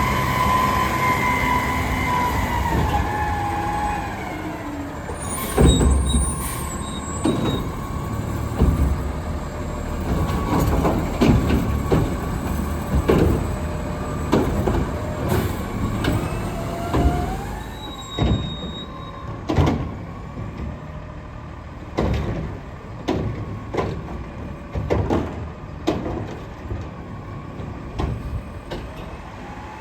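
Diesel Autocar garbage truck with a McNeilus Curotto-Can front loader: the engine's pitch falls over the first few seconds, then many sharp clanks and bangs follow from the working truck and its equipment.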